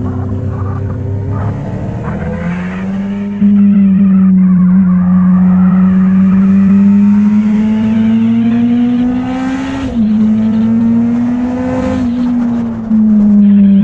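Motorcycle engine running while riding. It gets louder about three seconds in, and its note climbs slowly, drops sharply about ten seconds in like a gear change, then climbs and falls again.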